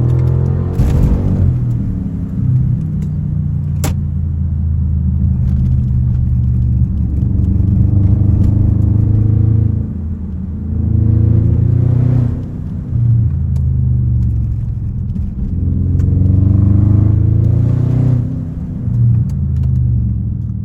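Straight-piped exhaust of an Audi A8L's twin-turbo 4.0 V8 running under way. The pitch rises and falls several times as the car accelerates and eases off, with a sharp click about four seconds in.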